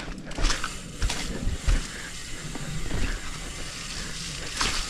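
Hardtail mountain bike rolling down a slimy dirt trail: tyre rumble with irregular knocks and thumps from the bike over bumps, and wind noise.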